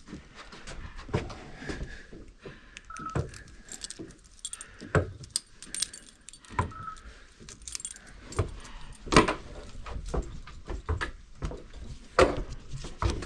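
Irregular clinking and knocking of small hard objects being handled: a string of sharp clicks and knocks, with louder knocks about five, nine and twelve seconds in.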